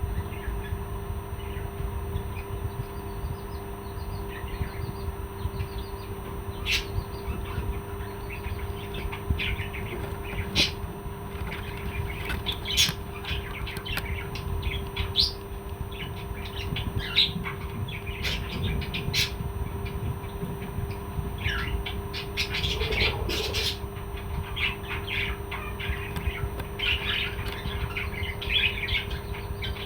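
Pet parrot chirping and squawking in short, scattered calls that come more often in the second half, over a steady low hum.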